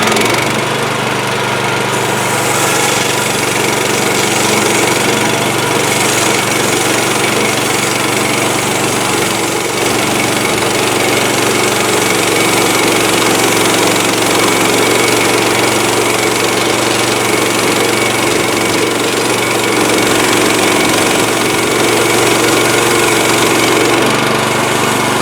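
Small gasoline engine of a portable bandsaw sawmill running steadily at speed.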